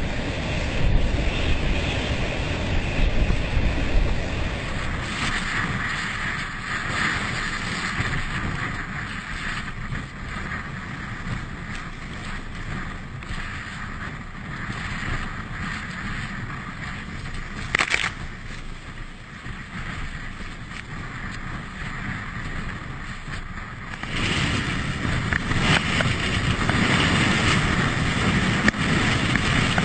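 Water rushing past a moving boat, with wind buffeting the microphone. The noise eases off through the middle, with one sharp knock, and grows louder again near the end.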